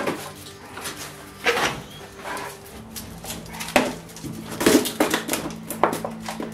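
A string of sharp knocks and clatters, about six, the loudest about a second and a half in and near the middle, over a steady low hum of sustained tones.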